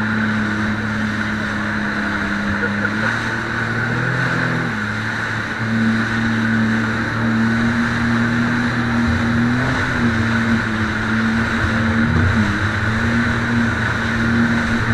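Jet ski engine running at speed, holding a steady pitch that dips briefly a few times as the throttle eases, over a steady hiss of water and wind.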